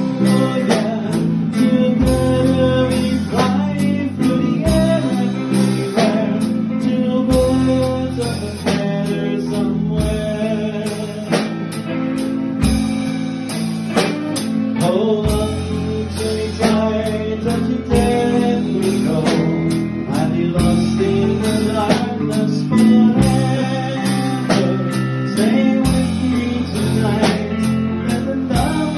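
Live band rehearsal performance of a pop-rock song: guitars, bass and drums with a steady beat, and a singing voice.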